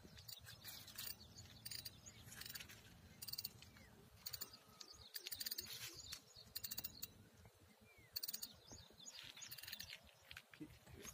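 Faint bird calls: short chirps and rapid trills that come and go, over a low rumble.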